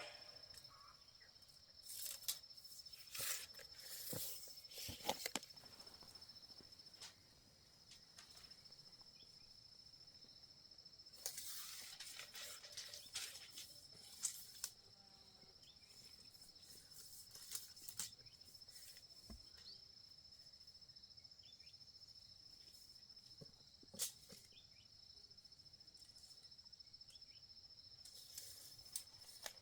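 Faint outdoor ambience: a steady high-pitched insect drone, with short rustling and knocking noises now and then, including one sharp knock about two-thirds of the way through.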